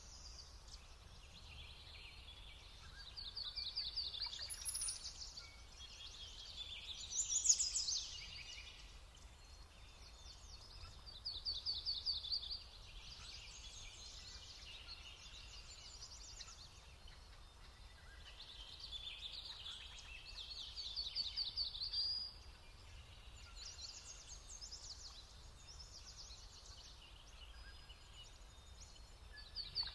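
A songbird singing outdoors: short trilled phrases of quickly repeated high notes, one every few seconds, over faint low background noise.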